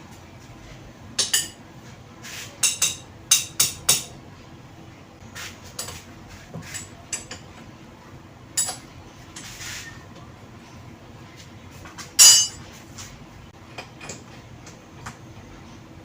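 Steel tools and parts clinking and knocking as they are handled and set down on a lathe: a quick run of sharp clanks in the first few seconds, scattered lighter clinks, and one loud ringing clank about twelve seconds in.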